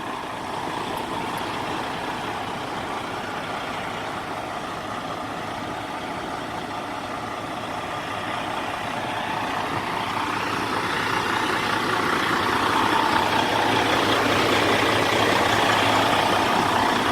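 Semi-truck engine idling steadily with a low hum, growing gradually louder about halfway through and then holding.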